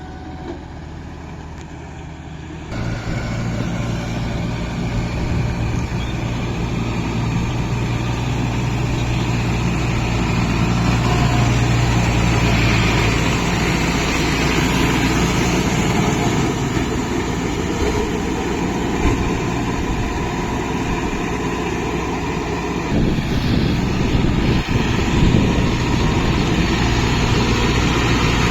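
Kubota MU 5502 tractor's diesel engine running steadily while working a rotavator. It gets clearly louder about three seconds in, and its sound shifts again a few seconds before the end.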